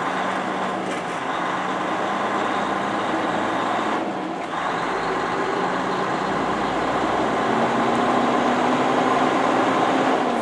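Semi truck's diesel engine running with a steady hum under a broad rushing noise as the rig moves along. The engine note rises a little and gets louder in the last few seconds.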